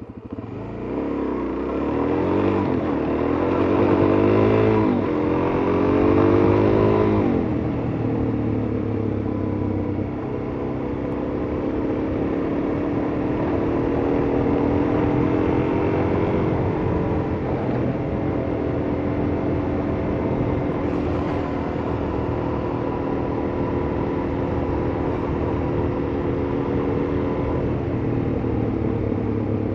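Suzuki DR-Z400S single-cylinder four-stroke engine under way: its pitch climbs in a couple of rising pulls with gear changes over the first seven seconds or so, then settles into steady cruising with slow rises and falls.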